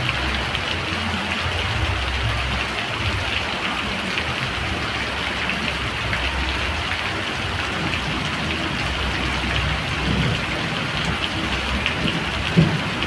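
Steady rain falling and pattering on surfaces, an even hiss of drops with a low rumble coming and going underneath. One brief sharp tap stands out near the end.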